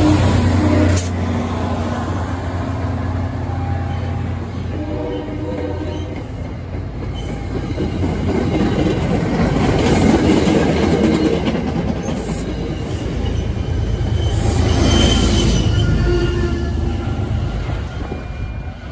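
MBTA commuter train passing at close range. An MP40PH-3C diesel locomotive's engine hum comes first and drops away after about a second. Then the passenger coaches roll by with a loud rush of wheels on rail and some faint wheel squeal, easing off near the end as the train pulls away.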